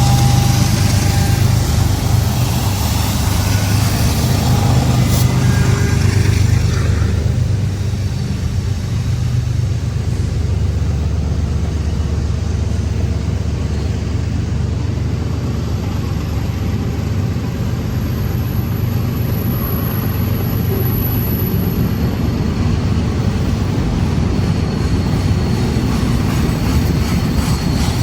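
Freight train passing at a crossing. The diesel locomotive's engine hum is loudest for the first several seconds, then gives way to the steady rumble of the rolling freight cars.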